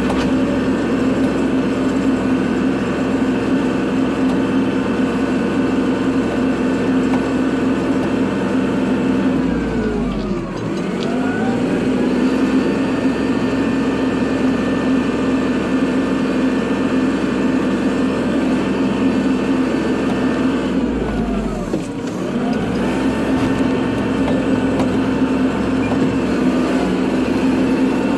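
Kubota tractor's diesel engine running steadily at working revs, twice dropping briefly in speed and climbing back up, about ten seconds in and again about twenty-one seconds in.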